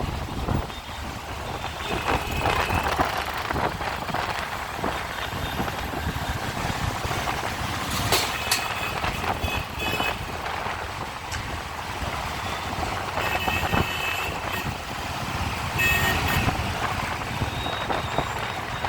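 City road traffic heard from a moving bike, with a steady rumble and hiss. Short high-pitched toots sound several times, near the start, in the middle and later on.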